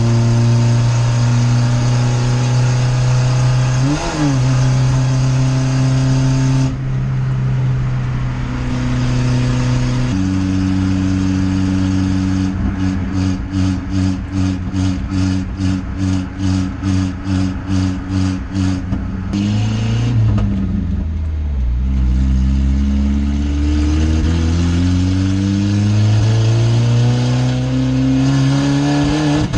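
Straight-piped Volvo engine droning steadily under way. A little after halfway the pitch drops as it shifts, then climbs again as it accelerates.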